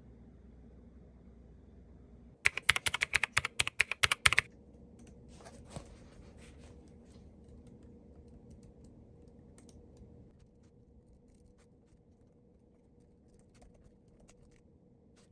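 Fast typing on a computer keyboard, a loud burst of key clicks lasting about two seconds, followed by a few faint, scattered clicks and taps.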